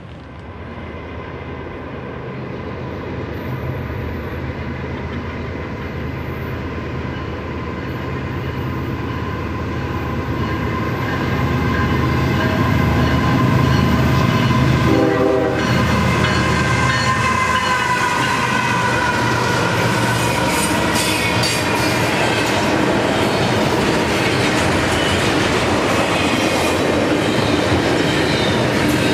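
Diesel freight train approaching and passing. The locomotive's engine hum grows steadily louder and goes by about halfway through, followed by the freight cars rolling past with wheel clatter and a high, wavering wheel squeal.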